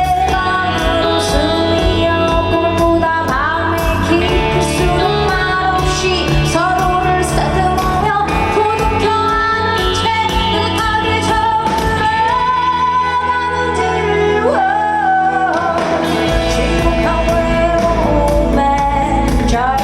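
Female singer with a live band, singing long, held notes. The bass drops out for a few seconds about two-thirds of the way through, then comes back in.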